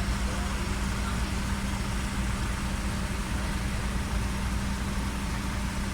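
Engine running steadily: an even low drone with a constant hum, no change in speed.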